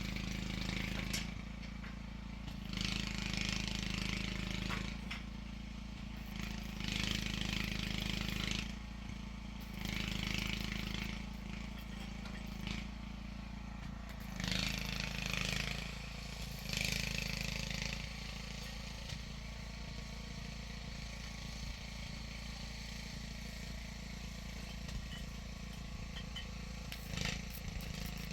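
An engine running steadily, overlaid by repeated bursts of hiss, each a second or two long, that stop in the last third.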